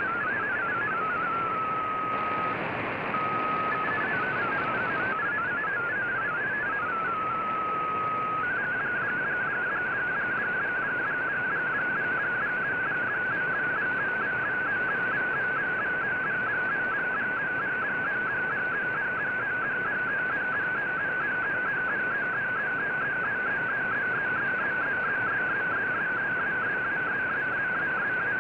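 Slow-scan TV (SSTV) image signal on a shortwave broadcast, heard through an Icom IC-R9500 receiver over steady band hiss. For the first few seconds the tone steps between pitches and holds a lower one for short spells. About eight seconds in it settles into a fast, regular warble as the picture lines are sent.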